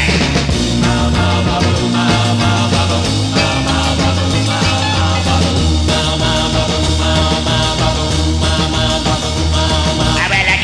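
Instrumental 1960s rock band music, with a steady bass line under the band.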